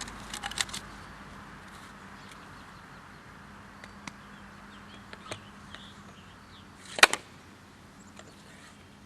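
Light clicks and one sharp knock about seven seconds in, from handling and loading a home-made gas-powered airsoft mortar.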